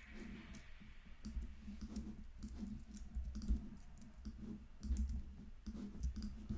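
Faint, scattered clicking of a computer mouse and keyboard, over a low steady hum.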